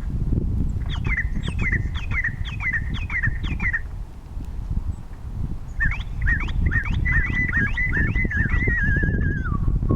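Two runs of loud, repeated down-slurred whistles, each of about half a dozen notes, with a short gap between them. The second run ends in a wavering whistle that slides down in pitch. The pattern is like a northern cardinal's song, over a steady low rumble.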